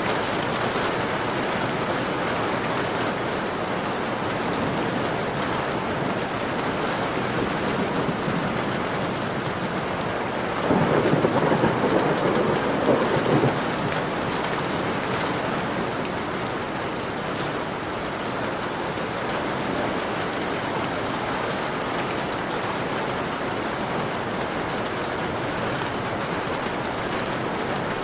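Steady heavy rain falling on a window. About ten seconds in, a roll of thunder swells over it for about three seconds.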